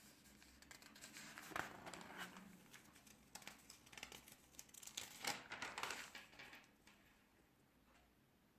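Faint rustling and crinkling with many quick clicks, strongest from about one and a half to seven seconds in, then dying down.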